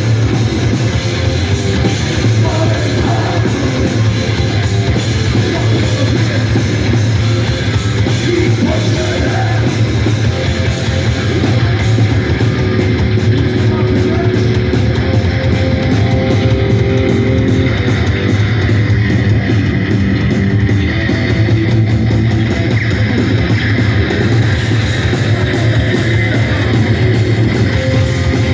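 Live rock band playing loud, heavy rock with distorted electric guitar.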